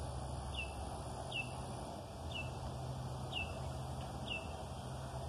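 A bird repeating a short, high call that slurs downward, about once a second, over a faint low outdoor rumble.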